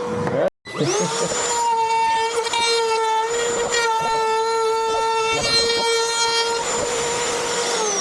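An electric power tool's motor spins up about a second in, runs with a high whine for about five seconds, and winds down near the end, over the steady hum of a shop vacuum dust extractor.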